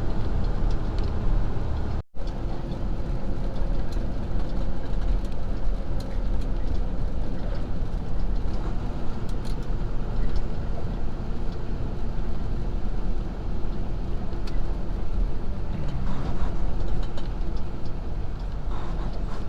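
Semi truck cab noise while driving: a steady low engine and road rumble, cutting out for a moment about two seconds in.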